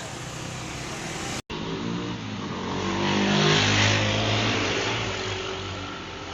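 Vehicle engine noise; after a cut about one and a half seconds in, an engine grows louder to a peak near the middle and fades away again as it passes by.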